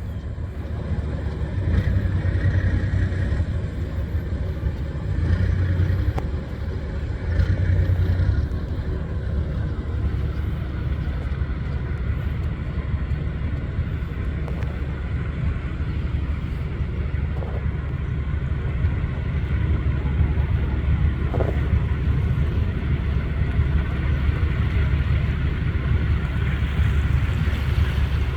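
Express boat's engine running with a steady low rumble, swelling louder three times in the first eight seconds.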